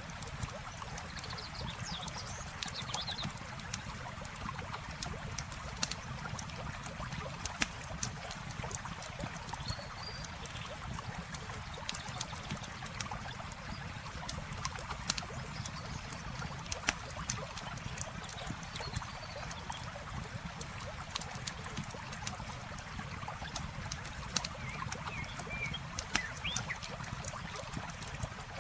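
Campfire crackling with frequent sharp pops over the steady rush and trickle of a flowing river, with a few faint chirps now and then.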